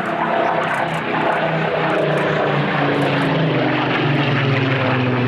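Propeller aircraft engine running loud and steady as the aircraft flies past, its note falling gradually in pitch toward the end.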